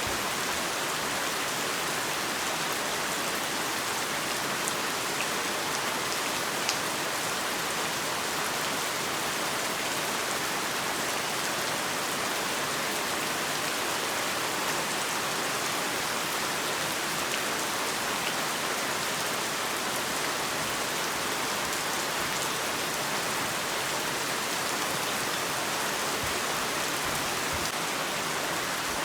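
Heavy rain falling steadily, a dense even hiss with a few single drop ticks standing out.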